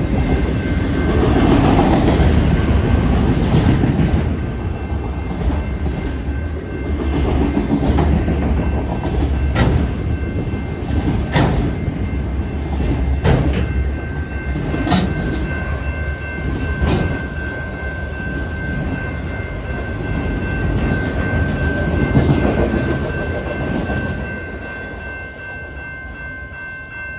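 Freight train of autorack cars rolling past, a loud steady rumble with a sharp wheel clack over the rail joints about every two seconds. A grade-crossing warning bell rings steadily throughout. Near the end the train noise fades as the last cars clear the crossing, leaving the bell.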